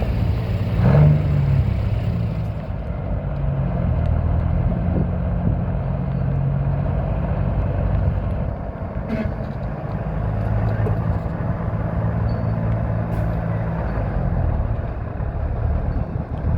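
Diesel engine of a 1984 Peterbilt 359 dump truck running steadily at idle, briefly revved about a second in.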